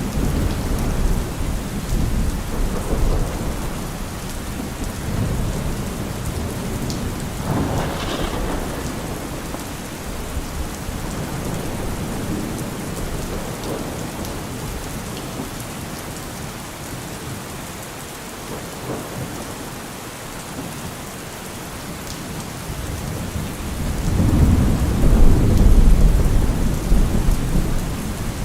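Steady rain falling, with low rumbles of thunder coming and going; the loudest rumble swells up near the end.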